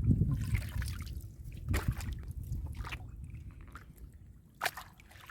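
Shallow water sloshing and dripping, with a few short splashes, the sharpest about two seconds in and again near the end.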